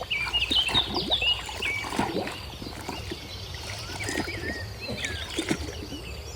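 Water sloshing and splashing, with small knocks, as a mud-covered plastic toy car is washed by hand, busier in the first couple of seconds. Birds chirp throughout, in short falling whistles.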